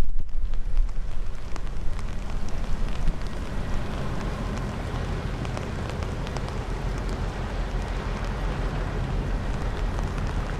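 Strong wind buffeting the microphone with a low rumble, and light rain with scattered small drop ticks. The gusting is strongest in the first couple of seconds, then settles to a steady rush.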